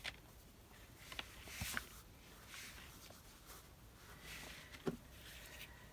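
Faint rustling of paper or fabric scraps being handled on a craft desk, with a few light clicks and taps.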